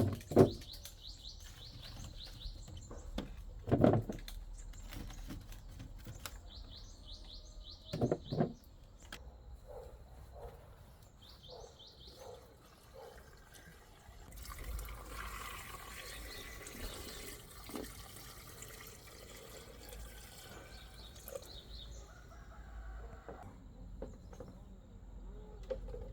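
Small birds chirping in short runs, with a few dull thumps near the start and again about four and eight seconds in; from about halfway through comes a spell of steady running-water noise lasting some eight seconds.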